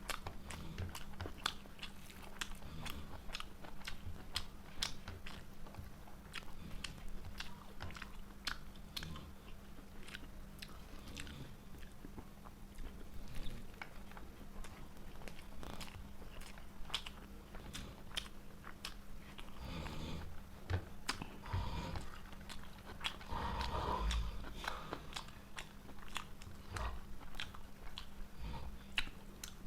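A person chewing and biting a meal of fried rice and chicken, with many short mouth clicks and smacks throughout and a louder stretch of chewing about two-thirds of the way in. A steady low hum runs underneath.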